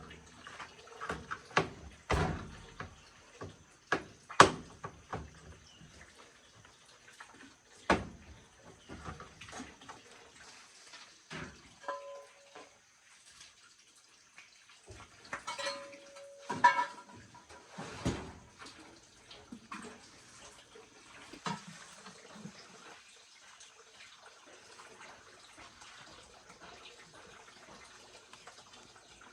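Scattered knocks, clicks and clatter of parts being handled during a washing machine repair. There are two short steady beeps, about twelve and sixteen seconds in, and the sounds thin out over the second half.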